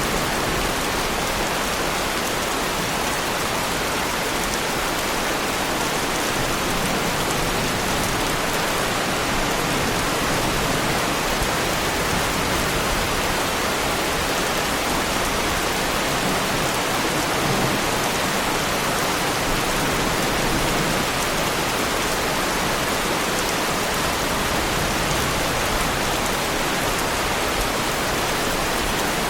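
Heavy rain falling steadily on a car, an even, unbroken hiss of drops with no let-up.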